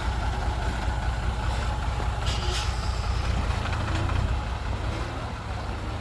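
Heavy diesel machinery running with a steady low rumble, with a short hiss a little past two seconds in; the level eases slightly after about four seconds.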